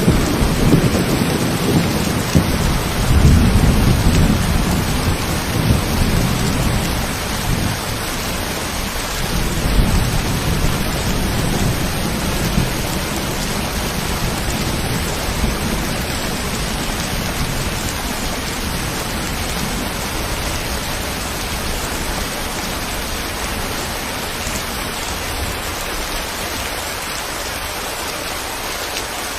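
Steady rain falling, an even hiss of raindrops. A long low rumble of thunder fills about the first third and fades away, leaving the rain alone.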